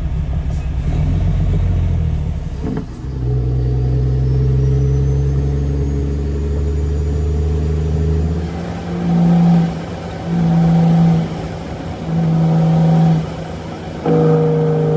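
Caterpillar C13 diesel of a Kenworth W900B dump truck running on the road, a steady drone for the first half. About halfway through the sound changes to four loud pulses, each about a second long at one steady pitch, with dips between them.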